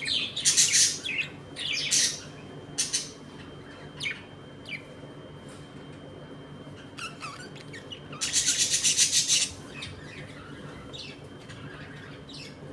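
A colony of budgerigars calling: bursts of squawks and chirps in the first two seconds and scattered short calls after, then a loud, rapid chattering burst lasting about a second and a half past the middle.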